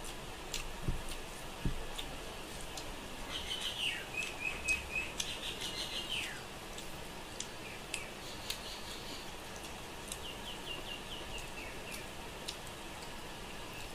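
High chirping in a few short bouts: a run of chirps ending in a falling trill a few seconds in, and a quick series of about six chirps near the end. Soft clicks of fingers working rice on a steel plate run under it.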